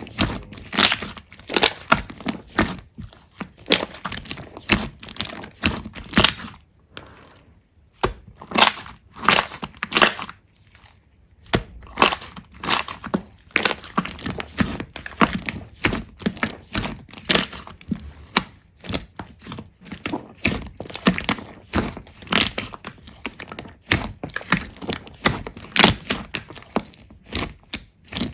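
Slime being squeezed and pressed by hand, giving a dense run of crackling clicks and pops, with a couple of short pauses in the middle.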